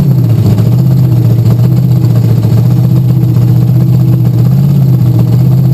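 Bigfoot 10 monster truck's engine idling loudly and steadily, with one brief slight rise in revs about four and a half seconds in.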